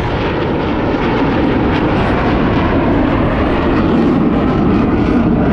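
Blue Angels jet aircraft making a loud, continuous pass, its engine noise swelling slightly toward the end.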